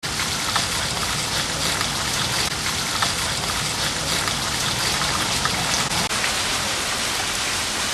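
Steady, heavy rain falling, with many individual drops ticking on hard surfaces.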